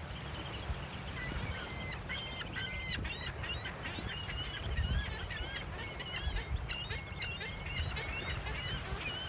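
Many gulls calling at once in a rapid chorus of short, overlapping cries that starts about a second and a half in and fades near the end, over a steady low rumble of ocean surf.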